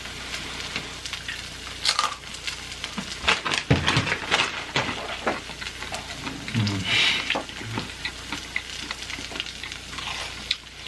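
Crunching and chewing of Takis rolled tortilla chips and fried potatoes dipped in melted cheese, heard as irregular sharp crunches.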